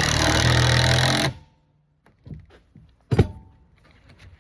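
Power drill driving a screw into wood, running steadily for about a second and then stopping, followed a couple of seconds later by a single sharp knock.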